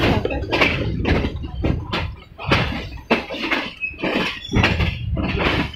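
Passenger train running at speed, heard from outside an open coach window: a steady rumble with irregular clattering of wheels over rail joints and points.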